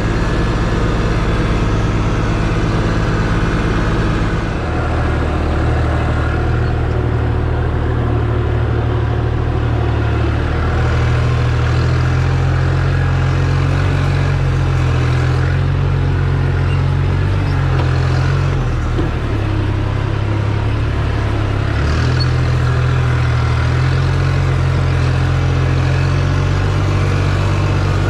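Tractor diesel engine running steadily at working revs. Its pitch shifts several times as the engine speed changes.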